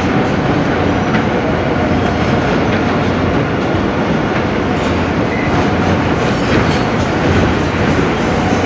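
An R160B subway car running steadily between stations, heard from inside the car: a constant rumble of wheels on the rails, with faint clicks from rail joints.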